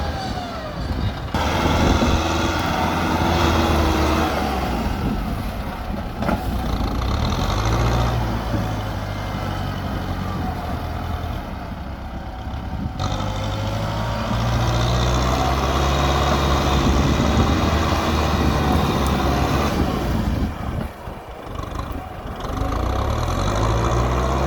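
Tractor diesel engine working steadily in a muddy rice field, its pitch rising and falling as the load changes, with a higher squealing tone above it at times.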